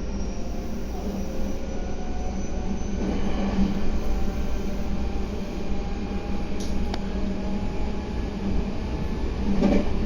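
Meitetsu 3150 series electric train running along the line: steady rumble of wheels and running gear, with a faint motor whine slowly rising in pitch and a few sharp clicks near the end.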